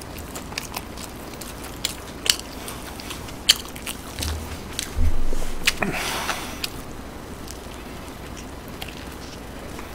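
Close-miked chewing and biting of a burger, with scattered wet mouth clicks and one louder, longer burst of noise about five seconds in.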